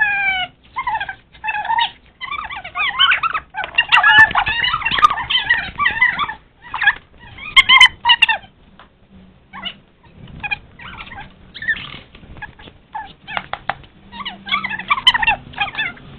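Animal calls: many short calls that bend up and down in pitch, packed closely together, with a few short pauses.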